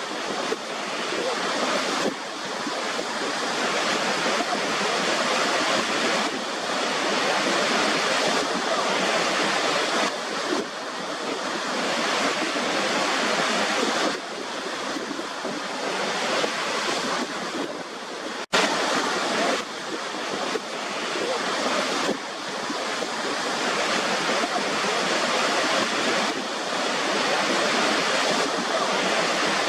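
Waterfall: a continuous rush of falling water, its loudness shifting a little every few seconds, with a momentary drop-out about eighteen seconds in.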